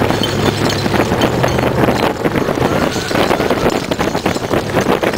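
Lifted Chevrolet Silverado pickup with a Flowmaster exhaust driving, with wind rushing over the microphone. A steady low engine tone is plain for about the first two seconds, then gives way to a rough, dense noise.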